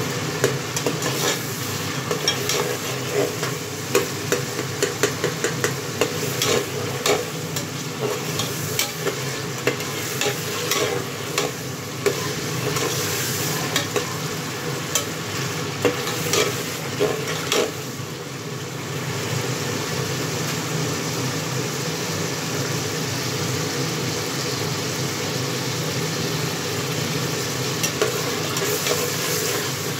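Chicken sizzling in oil in an aluminium pressure-cooker pot while a steel slotted spoon stirs it, clinking and scraping against the pot. The clinks come thick and fast at first, then thin out about eighteen seconds in, leaving a steadier sizzle.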